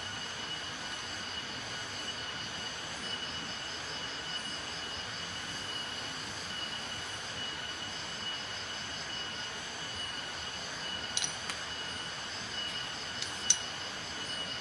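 Forest ambience: a steady high-pitched insect trill over an even hiss, with a few sharp clicks near the end, the loudest about a second before it ends.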